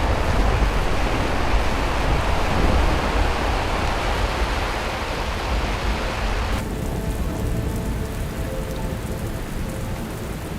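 Heavy rain falling hard. About six and a half seconds in it cuts to a softer, duller rain.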